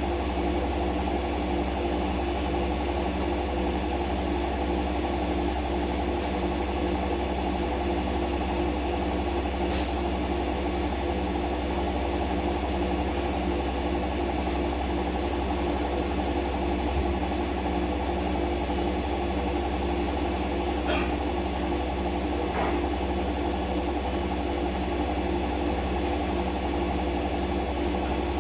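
Siemens washing machine in its spin cycle, the drum spinning at a steady speed with a constant motor hum and a faint regular pulsing.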